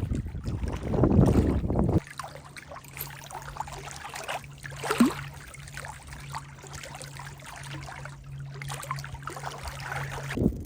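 Canoe paddling on calm water: soft swishes and drips of paddle strokes. A low wind rumble on the microphone fills the first two seconds, then cuts off abruptly, and a steady low hum runs beneath the water sounds until near the end.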